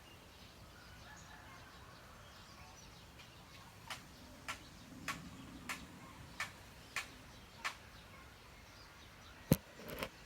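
Faint bird chirps in the background, then a run of seven sharp, evenly spaced clicks, about three every two seconds. One louder click and a couple of smaller ones come near the end.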